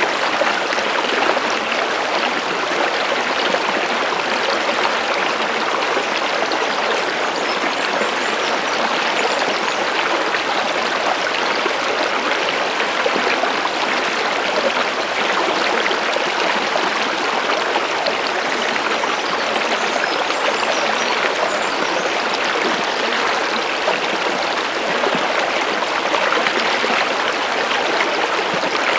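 Stream water running steadily, an even, unbroken rush and babble.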